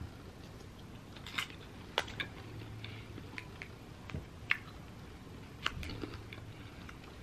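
Faint chewing of a spoonful of açaí bowl with granola, with scattered small crunches and clicks.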